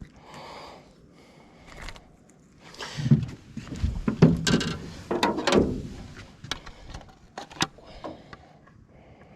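Handling noises in a boat: scattered clicks and knocks, with a louder stretch of scraping and heavy knocks from about three to six seconds in.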